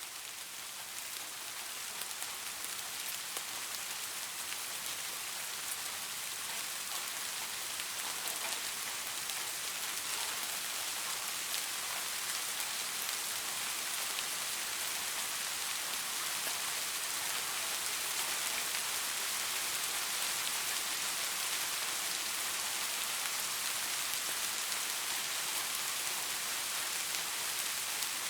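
Steady rain falling on leaves, a dense hiss flecked with fine drop ticks, swelling over the first couple of seconds and then holding even.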